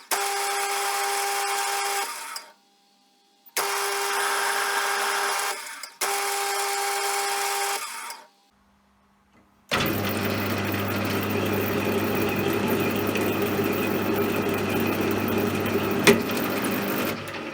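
CJM360 metal lathe running with a steady whine in three short stretches that start and stop abruptly. From about ten seconds in comes a different steady machine noise with a low hum, with one sharp click about sixteen seconds in.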